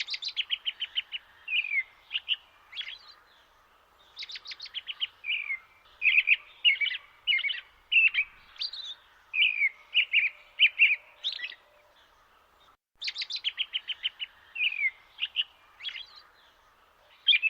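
Small birds singing: a busy run of short chirps, rapid note series and brief whistled phrases, over a faint steady hiss. The sound cuts out for a moment about two-thirds of the way through, then a rapid series of notes starts again.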